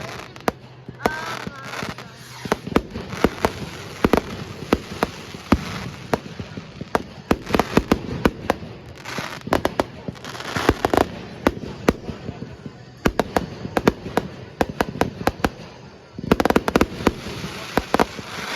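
Fireworks going off: many sharp bangs and crackles at irregular intervals, with some dense bursts of rapid popping, and a few people's voices.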